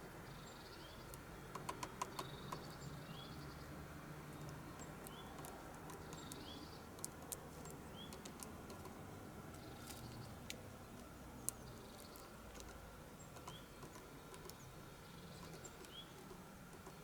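Blue tit pecking at a sunflower seed: sharp taps, a quick run of them about two seconds in, then single taps scattered later. Short rising chirps from a bird repeat every second or two underneath.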